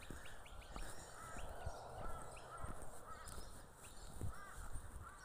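Birds calling over and over in short, arched calls, with the low thuds of footsteps on dirt scattered through.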